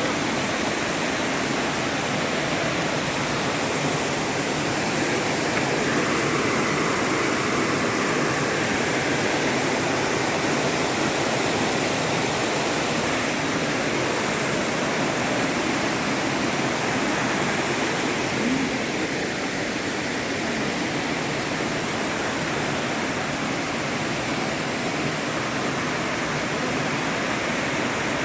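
Rushing water, steady and continuous.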